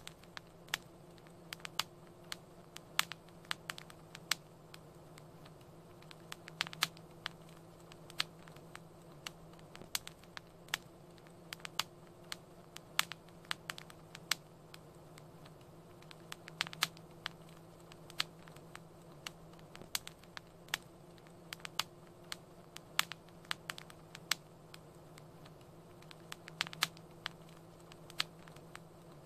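Wood fire crackling in a fireplace: irregular sharp pops and snaps, several a second, over a soft steady hiss and a low hum.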